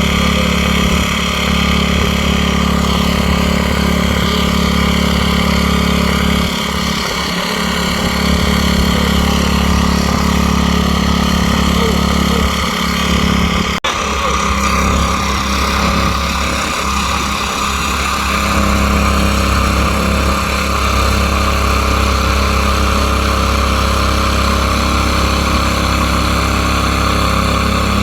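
Small gasoline engine of a garden tiller running steadily and loudly, with a momentary dip about halfway through.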